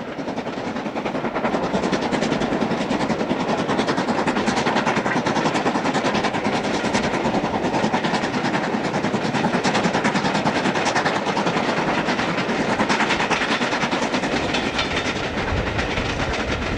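An LMS Stanier Class 5 'Black Five' steam locomotive and its train running by, making a steady, loud noise with a rapid, dense clatter of wheels on the rails.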